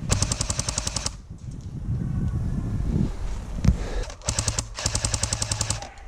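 Airsoft gun firing in full-auto bursts, a rapid even rattle of shots: one burst of about a second at the start, then two more near the end with a short break between them. A single sharp crack comes in the lull between them.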